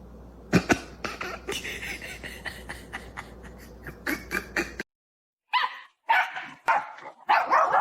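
A dog barking and yipping in short repeated calls, with a few sharp knocks in the first part. The sound cuts off abruptly a little before five seconds in and starts again about half a second later.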